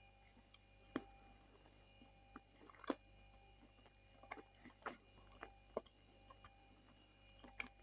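Mouth chewing a piece of Bashkir edible clay close to the microphone: scattered soft clicks and crunches, about half a dozen, irregularly spaced. The clay is sticky and clings in the mouth.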